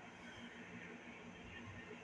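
Faint room tone with a steady low hum; no distinct handling sound stands out.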